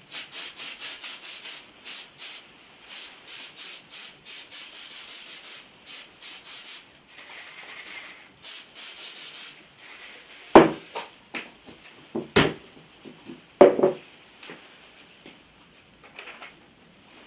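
Aerosol spray adhesive hissing out of the can in a run of short bursts, about three a second, then a softer spray. After that, a few loud sharp knocks.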